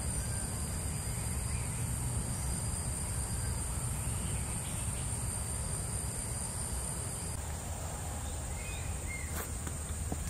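Steady, high-pitched drone of forest insects over a low background rumble; the drone changes slightly about seven seconds in, and a few faint short chirps follow.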